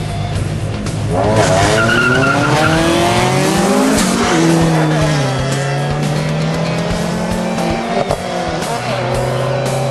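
Car engines: one revs hard and accelerates past from about a second in, its pitch climbing and then dropping as it goes by near the middle, before steady engine idling takes over.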